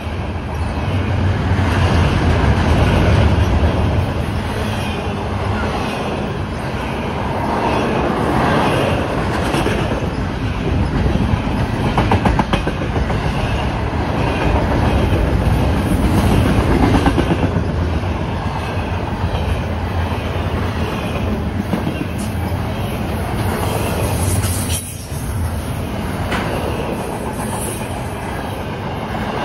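Double-stack intermodal container train rolling past at close range: steady noise of steel wheels on the rails that swells and eases as the cars go by, with clicks as the wheels cross rail joints.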